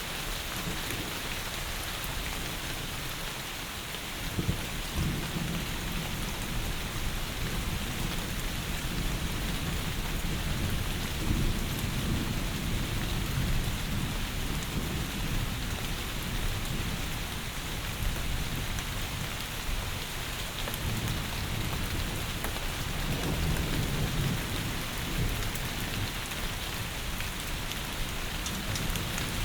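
Heavy rain pouring steadily, with low rolls of thunder that swell and fade about three times.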